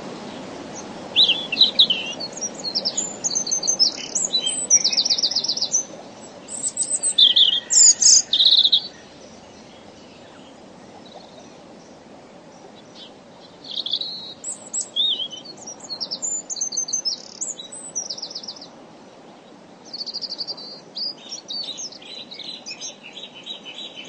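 Wild birds singing: bursts of high chirps and fast trills, loudest in the first nine seconds, then further phrases after a short lull, over a faint steady outdoor hiss.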